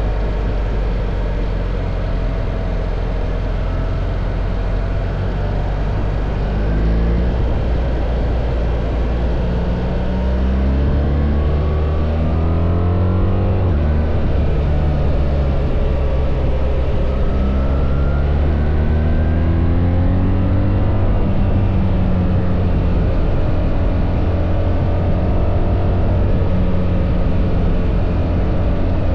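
BMW R1300 GS boxer-twin engine under way, its pitch climbing twice with a drop back in between about halfway through, as when pulling up through a gear, then settling to a steady note for the rest.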